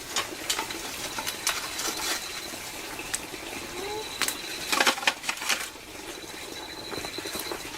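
Scattered light knocks, clicks and clatter of household work over a steady background hiss, with a busier cluster of knocks about five seconds in.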